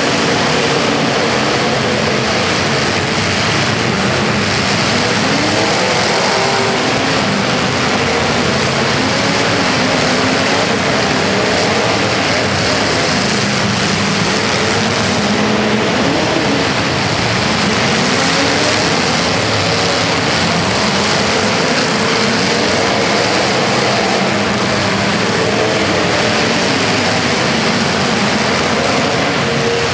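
Several motor-vehicle engines running and revving together, loud and continuous, their pitch rising and falling.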